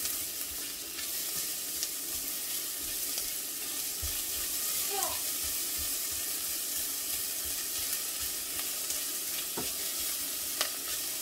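Garlic and chopped onion sizzling in hot olive oil in a stainless steel saucepan as they are stirred with a spatula. A steady hiss, with a few light clicks along the way.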